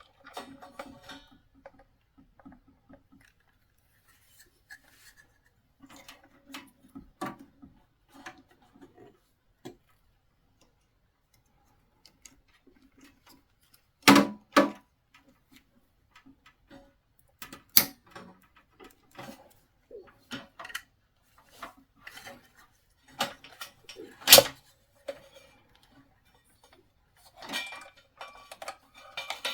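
Plastic wiring connectors being handled and pushed onto a diesel heater's control board: scattered small clicks and taps, with three louder sharp clicks spread through.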